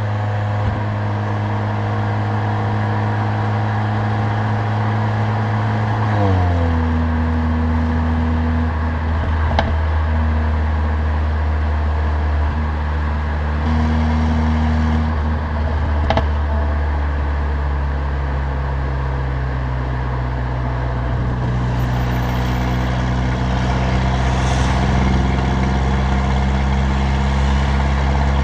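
Mercedes-AMG CLA45's turbocharged 2.0-litre four-cylinder engine with a loud Stage 2 exhaust, running steadily while driving. Its note drops in pitch about six seconds in as engine speed falls, then holds a lower, steady drone.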